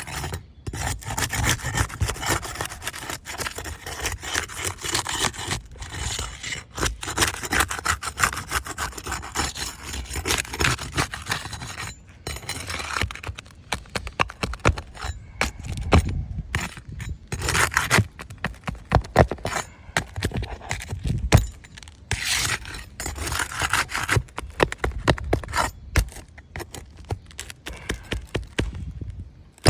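Aged three-tab asphalt shingles being pried up and worked loose, an irregular scraping and rubbing with many sharp crackles and clicks that come in bursts with short pauses. The shingles are brittle enough to crack and crease even while damp.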